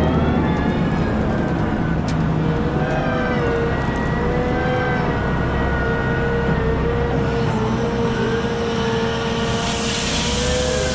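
Cat 972M XE wheel loader running, its diesel engine droning steadily under a wavering whine. A hissing rush builds near the end.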